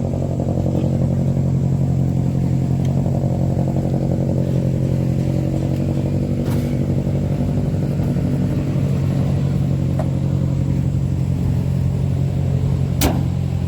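A vehicle engine idling steadily at a constant pitch, with one sharp click near the end.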